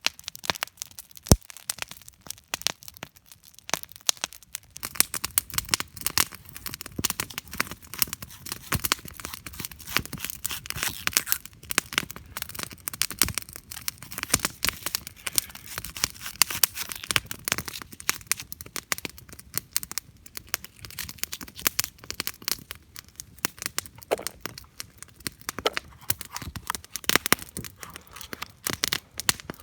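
Wood campfire crackling, with dense irregular pops and snaps and one sharp snap about a second in.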